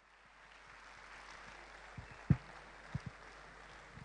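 Faint steady hiss of background noise with a few dull low thumps: one about two seconds in, a louder one just after, and two more close together about three seconds in.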